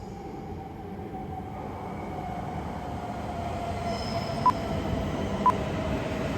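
Hokuriku Shinkansen Kagayaki (E7/W7-series) train approaching, its running noise growing steadily louder, with a high tone slowly falling in pitch. Three short beeps about a second apart sound in the second half.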